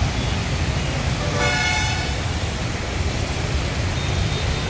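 Road traffic with a steady low rumble, and a vehicle horn sounding once for about half a second, a second and a half in.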